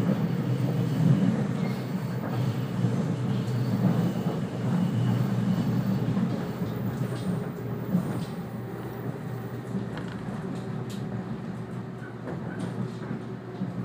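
Running noise of a 485-series electric train heard from inside the passenger car: a steady rumble of wheels on rail and the running gear, fading gradually over the last several seconds.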